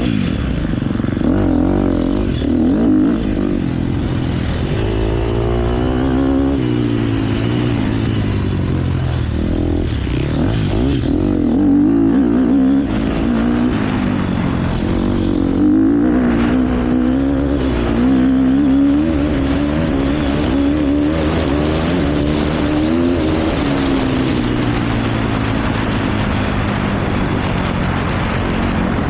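KTM motocross bike's engine at race pace, its pitch rising and falling over and over as it accelerates, shifts and backs off.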